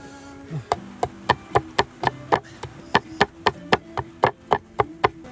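Food being chopped on a board: a quick, even run of about eighteen sharp strikes, roughly four a second, starting just under a second in.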